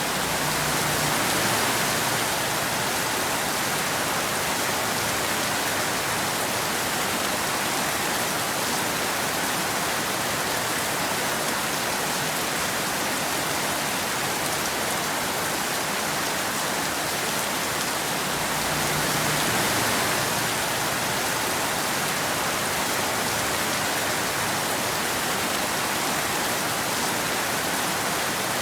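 Steady rain falling, an even hiss of drops with no thunder, swelling slightly about a second in and again about two-thirds of the way through.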